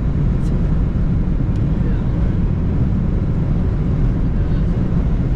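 Steady road and engine noise inside a moving car's cabin, a low rumble with no break.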